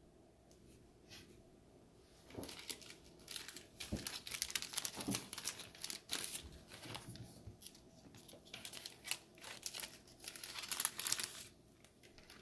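Plastic card sleeves crinkling and rustling as trading cards are handled and slid into them, in a quick run of irregular scratchy rustles that starts about two seconds in and stops shortly before the end.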